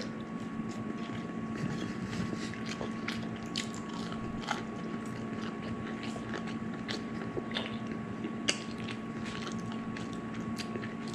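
A person chewing crunchy fried chicken tenders and tater tots close to the microphone, with faint scattered clicks, over a steady low hum.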